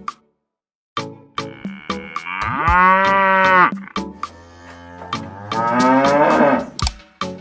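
Cow mooing twice: a long moo starting about two seconds in, and a shorter one about six seconds in. Sharp regular clicks sound around the moos.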